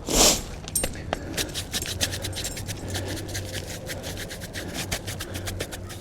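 Soft paintbrush brushed over asphalt roof shingles, a fast run of short scratchy strokes, several a second, with a brief louder rush of noise right at the start.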